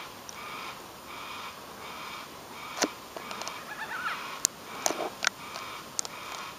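A yellow-tailed black cockatoo chick giving repeated, evenly spaced begging calls for food, a little more than one a second, with a few sharp clicks over the calls.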